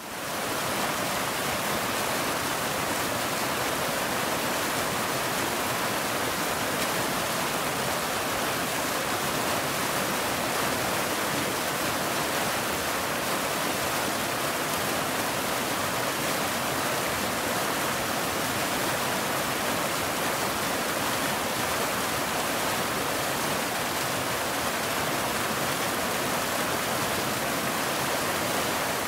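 Waterfall: a steady, even rush of falling water, fading in quickly at the start.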